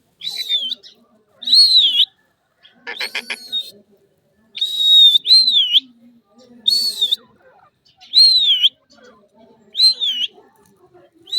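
Parrot giving a string of loud, high whistled calls, each a short whistle that rises and dips, repeated about once a second. About three seconds in there is one harsher buzzing call.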